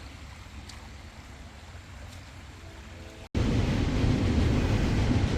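Faint outdoor hush, then after an abrupt break about three seconds in, a loud steady rushing noise, heaviest in the low end, typical of wind buffeting the microphone.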